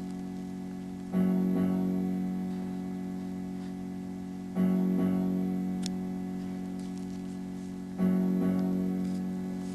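Background music: a plucked-string chord with a guitar-like sound, struck three times about three and a half seconds apart, each time ringing on and slowly fading.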